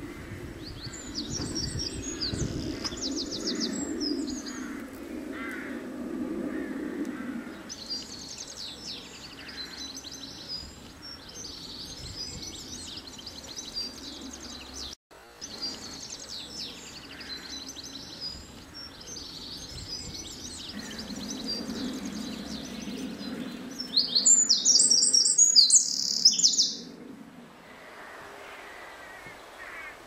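Songbirds singing in repeated high, trilling phrases, with one louder, closer song about three-quarters of the way through, over a low steady background rumble.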